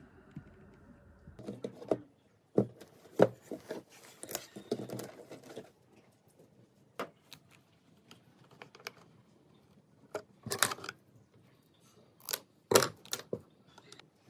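Irregular clicks, clinks and knocks of small hard parts being handled, in short clusters with quiet gaps between them.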